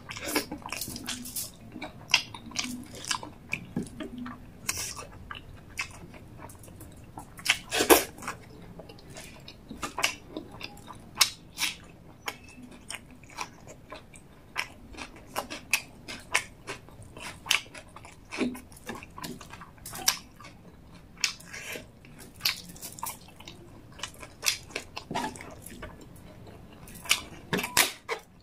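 Close-miked eating of rice and chicken gravy by hand: wet chewing and smacking mouth clicks, with crisp crunches from bites of raw onion and papad.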